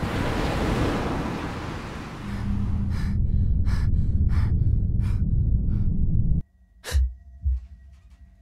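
Horror-film sound design: a rush like surf, then a low rumbling drone with a run of six sharp, breath-like bursts, all cutting off suddenly. About half a second later a young woman gasps sharply as she jolts awake, followed by two soft low thumps from her moving on the bed.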